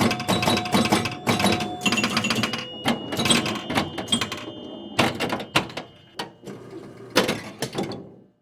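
Mechanical clatter from a piece of technology: rapid clicks and clunks with a few brief steady tones, thinning out in the second half and stopping shortly before the end.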